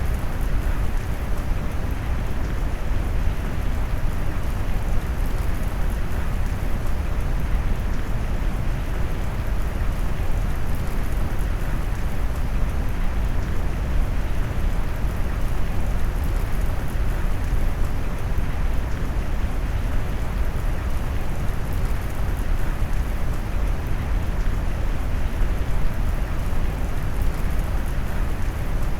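Rain sound mixed with brown noise: a steady, even hiss weighted heavily to the deep end, with no distinct drops or breaks.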